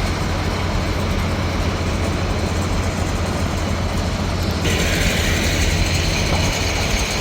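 Diesel tractor engines running as a line of tractors drives slowly past, a loud steady low rumble. About two-thirds of the way through, a steady hiss comes in over the rumble.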